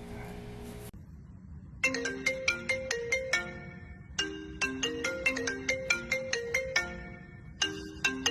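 A phone ringtone playing: a quick marimba-like melody of short struck notes, starting about two seconds in and repeating in phrases with brief pauses between them.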